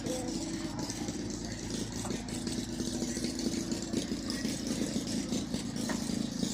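Antique tractor engine idling steadily.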